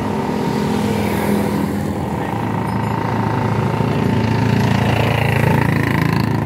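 Engine with a dynamo fitted running steadily, getting a little louder about halfway through.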